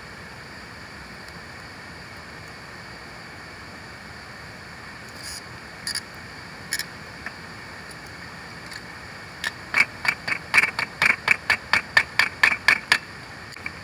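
Steady hiss of rain and a river, with a few light clicks in the middle, then, from about ten seconds in, a quick run of sharp metal clinks, about five a second: a spoon stirring bush coffee in a metal pot.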